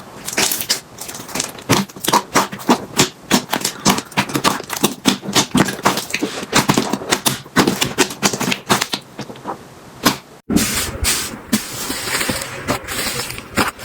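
Slime being squeezed and pressed by hand, giving a dense, irregular run of sticky clicks and pops. About ten and a half seconds in the sound cuts out for a moment and comes back with a softer, hissier crackle, as a new slime is handled.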